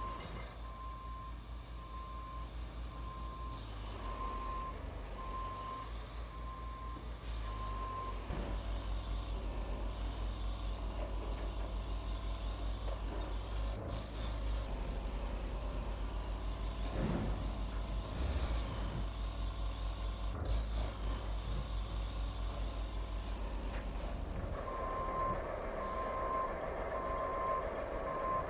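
Truck's reversing alarm beeping about once a second over a truck engine's steady low rumble; the beeping stops after about eight seconds and starts again near the end.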